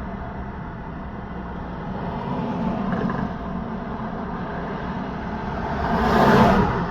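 Steady road-traffic noise with a low engine and tyre rumble. A vehicle passes close about six seconds in, its tyre noise swelling and then falling away.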